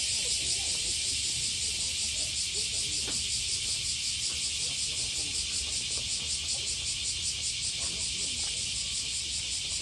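A chorus of cicadas buzzing steadily, a high hiss with a fast, even pulse, over a low rumble, with faint distant voices now and then.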